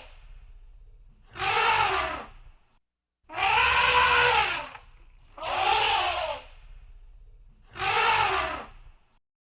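Elephant trumpeting four times, each call a loud brassy blast of about a second that rises and falls in pitch; the second call is the longest.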